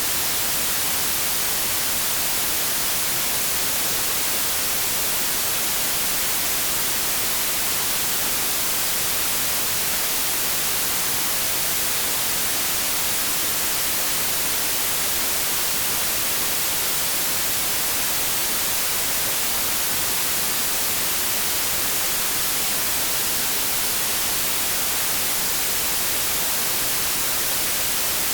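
Continuous white noise: a steady, unchanging hiss, strongest in the high end.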